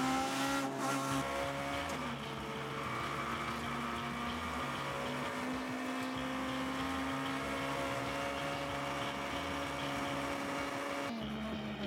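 Rally car engine running at high revs on a tarmac stage, heard onboard: a steady, high engine note that dips slightly in pitch near the start and holds nearly level after that. Near the end it changes abruptly to a different engine note.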